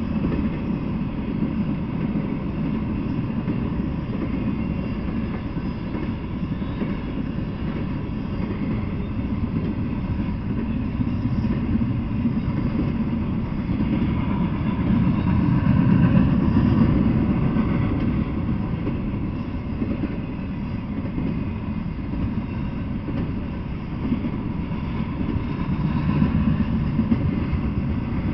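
Double-stack intermodal freight train's well cars rolling past: a steady low rumble of steel wheels on the rails, swelling louder about halfway through.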